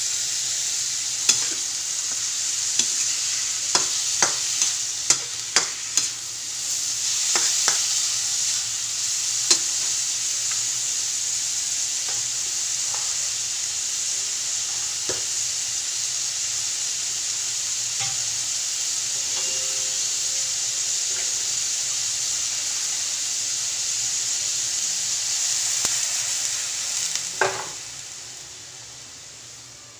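Pork and onions sizzling as they are stir-fried in a wok, with a spatula clicking and scraping against the pan several times in the first ten seconds. Near the end a louder knock comes, and the sizzling dies down as liquid is added to the pan.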